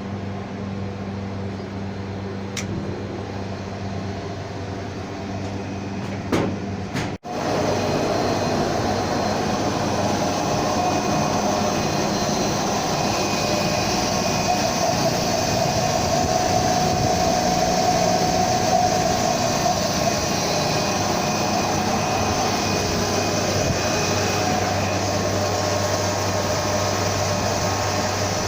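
Steady electric machinery hum of a 15 kW three-phase motor driving a chiller water pump. About seven seconds in the sound drops out for an instant and comes back louder and fuller, with a steady whine on top.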